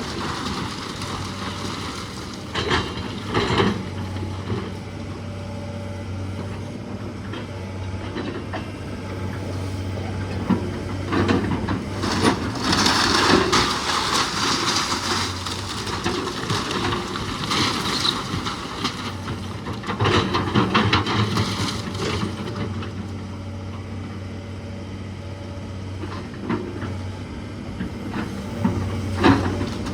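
An engine running steadily under irregular crunching and cracking of wood and debris, as a house is torn down by machine. The heaviest crunching comes in the middle of the stretch.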